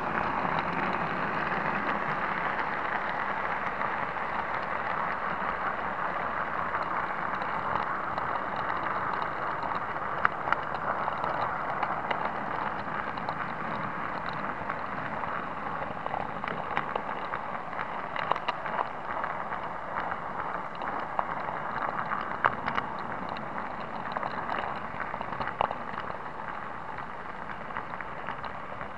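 009 narrow gauge model train running along its track: a steady rushing rattle from wheels and motor, with scattered sharp clicks, slowly getting quieter.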